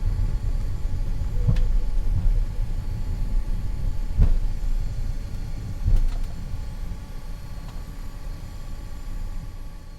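Flight-deck noise of an Avro RJ100 taxiing with its four turbofans at low power: a steady low rumble with faint steady tones above it and a few short thumps. The sound fades away near the end.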